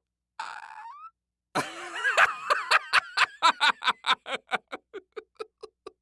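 A person laughing: a long run of voiced "ha" pulses that starts loud and then slows and fades over about four seconds. A short breathy sound with a rising pitch comes about a second before the laugh begins.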